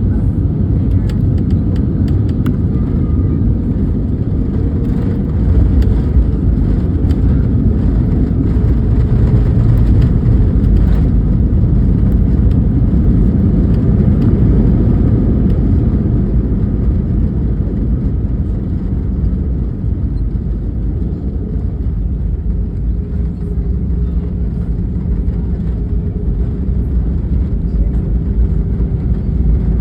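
Steady low rumble of an airliner's engines and rushing air heard from inside the passenger cabin, a little louder for several seconds early on, then easing, with a faint steady hum coming through later.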